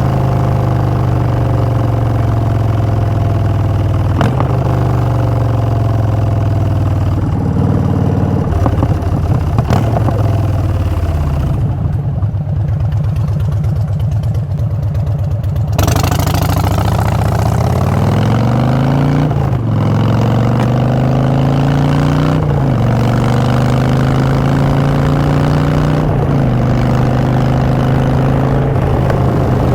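A 2016 Harley-Davidson Street Bob V-twin running through Vance & Hines Short Shots exhaust while riding. The engine note falls as the bike slows about ten seconds in and settles to a low rumble for a few seconds. About sixteen seconds in the bike accelerates, the pitch rising and dropping back at three gear changes.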